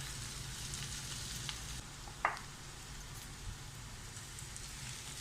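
Onions, chillies, curry leaves and whole spices frying lightly in coconut oil in a pan: a steady, fairly quiet sizzle with faint crackles, and a brief squeak about two seconds in.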